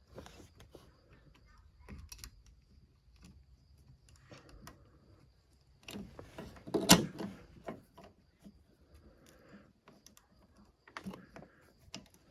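Scattered light clicks and knocks of small metal parts being handled and fitted while the choke is worked into the snowmobile's carburetor, with a louder clatter about seven seconds in.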